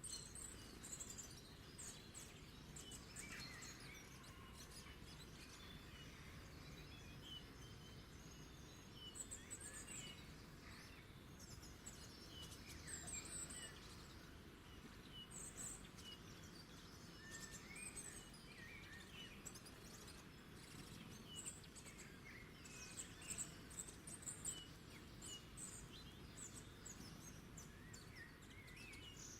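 Faint wild birdsong: many short chirps, trills and calls from several birds, scattered and overlapping, over a steady low background hiss.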